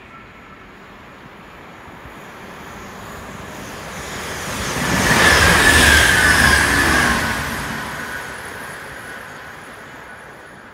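Electric train passing by: it builds over several seconds, goes past about five to seven seconds in with a high whine that dips slightly in pitch, then fades away.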